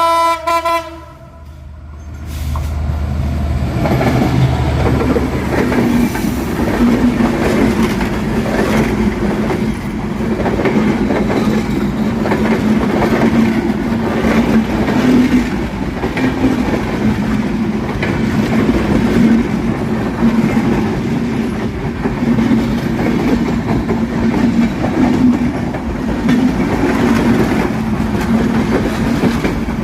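A train horn blows briefly at the start. Then a train runs at speed, a loud, steady rumble with rhythmic wheel clatter over the rails.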